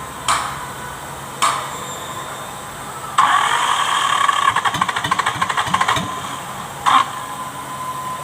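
Kubota V1501 four-cylinder diesel being cranked by its starter: two short bursts, then a longer crank of about three seconds with a fast even pulse, then another short burst. The engine is hard to start, which is blamed on a stuck injection pump.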